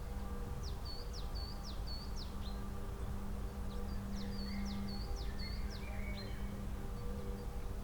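A songbird singing two phrases of quick, high, repeated chirping notes, a few seconds apart. A steady low hum runs beneath.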